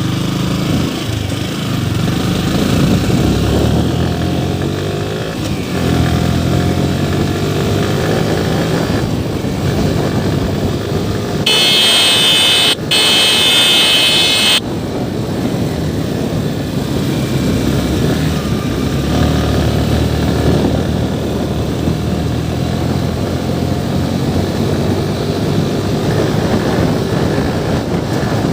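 Motorcycle engine running under way, its pitch rising and falling as it speeds up and slows. From about eleven to fourteen seconds in, a loud high-pitched tone sounds over it for about three seconds, with a brief break in the middle.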